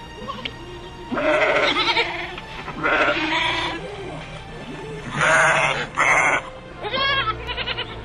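A series of loud animal calls over background music: three calls of about a second each, then a quick run of shorter calls near the end.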